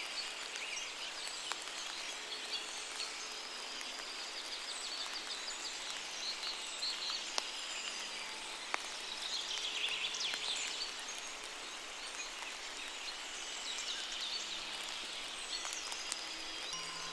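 Steady rain falling through forest foliage, with birds chirping through it and a few sharp single drips.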